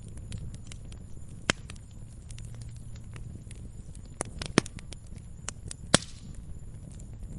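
Wood fire in a fireplace crackling, with scattered sharp pops over a low steady rumble of the flames; the loudest pops come about one and a half, four and a half and six seconds in.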